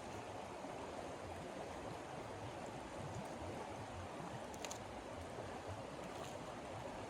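Steady rushing noise of strong wind, with a couple of faint clicks in the second half.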